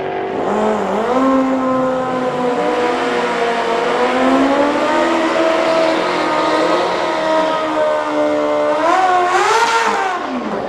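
A racing vehicle's engine running at high revs. Its pitch climbs about a second in, holds with small rises and dips, then rises once more and falls away near the end.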